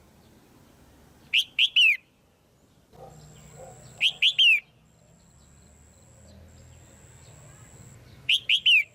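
Female red-whiskered bulbul calling: three loud phrases, each of three quick sweeping notes, a few seconds apart. A call of the kind used to provoke a male bulbul. A faint steady high whine runs under it from about three seconds in.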